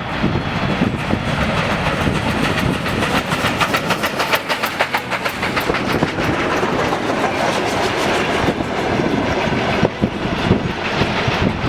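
Train running on the rails, its wheels clattering in a rapid run of clicks over steady rumbling noise, with the clatter densest in the middle.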